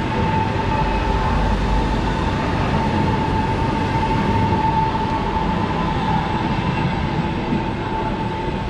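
Trenitalia Frecciargento tilting electric train rolling past along a station platform: a steady rumble of wheels and running gear with a constant high tone held over it.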